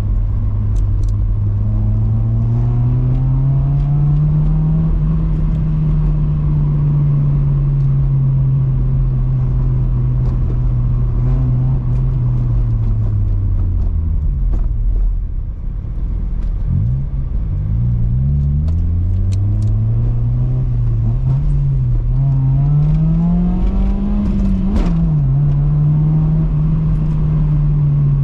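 Honda Civic EP2's 1.6-litre four-cylinder engine running through an aftermarket cat-back exhaust while driving: the engine note climbs under acceleration, holds at a steady cruise, drops away as the car slows about halfway through, then climbs again, with a quick drop in pitch near the end like a gear change before settling to a steady drone.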